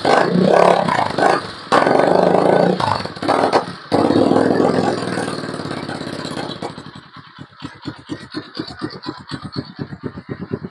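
Kawasaki KLX dirt bike's single-cylinder four-stroke engine running through an aftermarket Norifumi Rocket 4 exhaust, revved in several blips, then dropping back about six and a half seconds in to a choppy idle with distinct exhaust pulses as it warms up.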